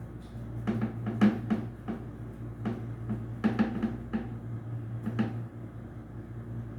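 Irregular sharp metallic knocks and taps from tools and parts while a washing-machine motor is being dismantled, about a dozen in the first five seconds, over a steady low hum.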